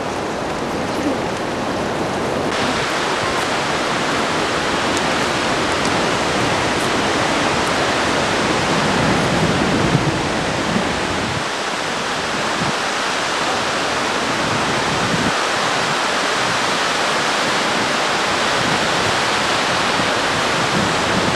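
Steady rushing water, a loud even hiss that turns brighter about two and a half seconds in.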